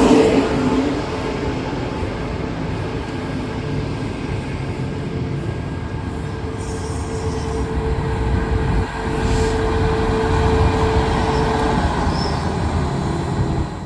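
Queensland Rail electric passenger train running on the track, a continuous rumble of wheels on rail, loudest at the start, with a steady whine for several seconds from about halfway through.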